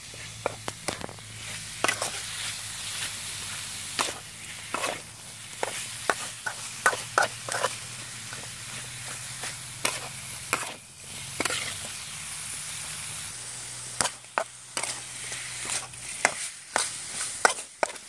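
Chopped snail meat stir-frying in a metal wok: a steady sizzle broken by frequent, irregular scrapes and clinks of a metal spatula against the pan.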